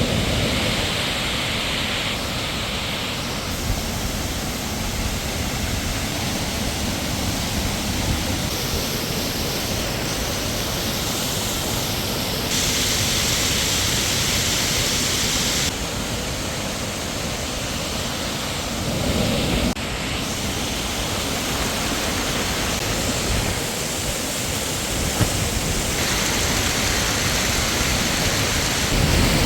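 Waterfall rushing: a steady, loud roar of falling water that changes abruptly in tone several times, as if cut between different shots.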